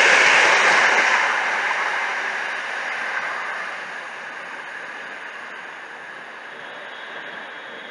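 A train passing on the line, its rushing noise fading away over about four seconds as it draws off.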